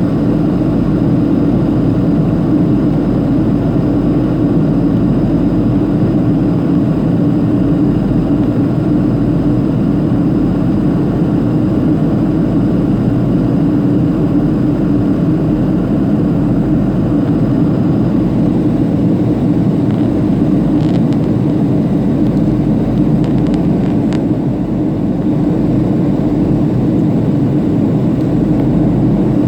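Boeing 737-500 cabin noise: the steady roar of the CFM56-3 turbofan engines and the airflow over the fuselage, heard from a rear seat.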